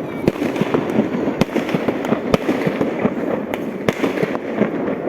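Fireworks going off in a dense barrage: continuous crackling and popping with many sharp bangs, a few of them louder reports scattered through.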